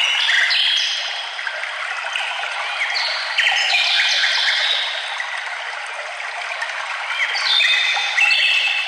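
Several songbirds singing in short, clear, overlapping phrases over a steady rush like running water.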